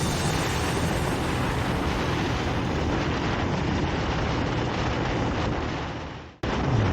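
Ural sidecar motorcycle riding along, its engine rumbling under heavy wind rush. The sound fades out about six seconds in and cuts off, and a different sound starts just before the end.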